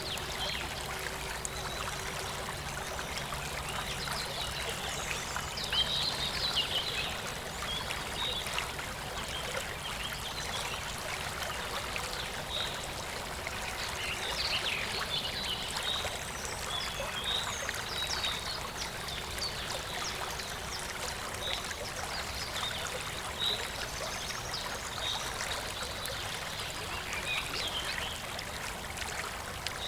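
A clear stream running steadily, with a continuous trickling, babbling sound and many small splashes.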